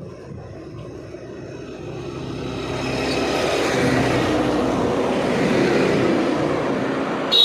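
A road vehicle passing, its engine and tyre noise growing louder over the first few seconds and then holding steady. A brief, sharp, high-pitched sound comes right at the end.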